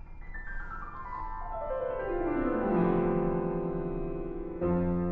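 Piano playing a fast descending run, its notes ringing on together as they step down from high to low over about three seconds, then a low chord struck near the end and left to sustain.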